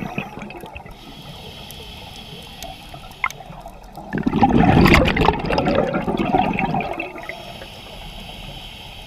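Scuba diver breathing through a regulator underwater: a rush of exhaled bubbles lasting about three seconds in the middle, with quieter hissing either side.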